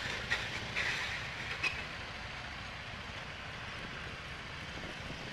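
Steady road and engine noise of a moving car as picked up by a dashcam, a continuous hiss with a few faint clicks in the first couple of seconds.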